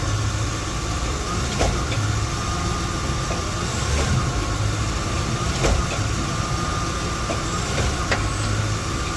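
Lexus LX470's 4.7-litre V8 idling, with a sharp clunk about every two seconds, four in all, and a thin steady whine. The clunking is not normal; the owner takes it for a fault in the drivetrain rather than an engine mount.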